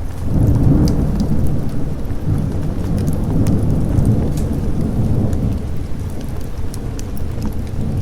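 A thunderclap breaks in suddenly and rolls into a deep rumble for several seconds, easing off toward the end, over steady rain. Short sharp crackles are scattered throughout, like a wood fire crackling.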